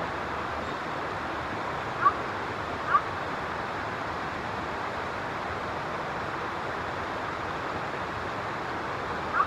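Steady rush of flowing water. A pair of short chirps comes about two seconds in, and another chirp comes near the end.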